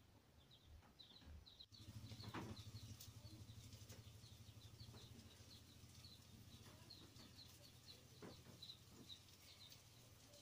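Faint bird chirping, short high chirps repeating a few times a second, over a low steady hum.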